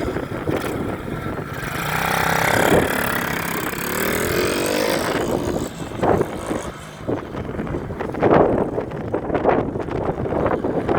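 A 110cc four-stroke kids' dirt bike engine running and being revved as the bike is ridden, its pitch rising and falling, loudest a little under three seconds in.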